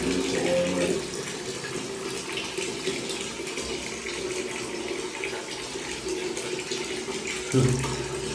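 Steady rush of falling, splashing water.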